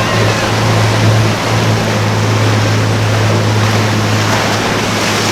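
Motorboat engines running with a steady low drone over the wash of waves and wind noise.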